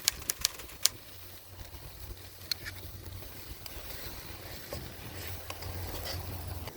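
Wood campfire crackling: irregular sharp pops and snaps of burning wood, several close together in the first second, over a steady low rumble.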